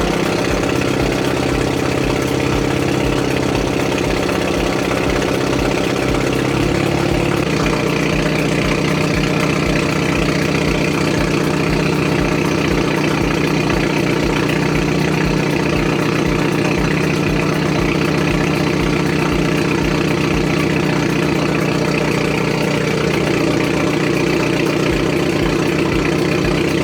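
Hyundai Genesis Coupe 2.0T's turbocharged four-cylinder idling after a cold start through a Tomei Expreme Ti titanium turbo-back exhaust with no cats and straight piping, a loud, steady idle note. The idle note shifts lower about seven seconds in.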